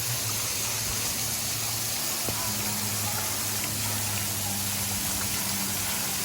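Waterfall rushing steadily, with a low steady hum underneath.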